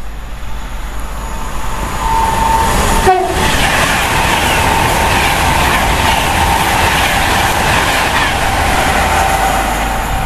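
Virgin Pendolino (Class 390) electric train sounding its two-tone horn about two to three seconds in, then passing through at speed with a loud, steady rush of wheels on rail.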